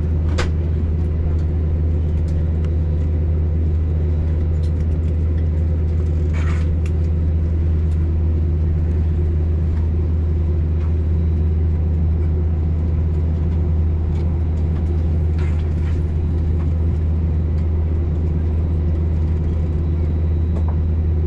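Steady low drone of an Airbus A320neo heard from inside the passenger cabin during pushback. A few faint, brief clicks sound over it.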